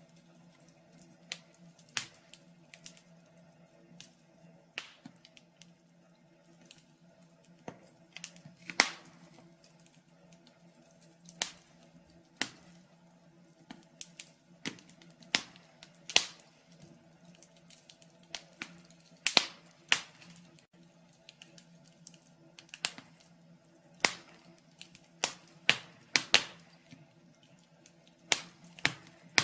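Wood fire crackling in a fireplace: irregular sharp pops and snaps, one to a few a second, over a faint steady hum.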